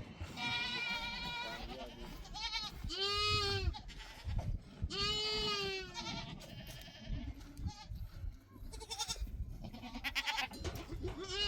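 Goats bleating repeatedly, about eight calls of varying length, the longer ones rising and falling in pitch.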